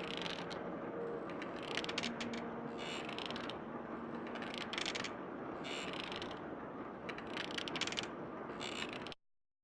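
Rapid mechanical clicking, ratchet-like, in short clusters about once a second over a steady hiss; it cuts off suddenly near the end.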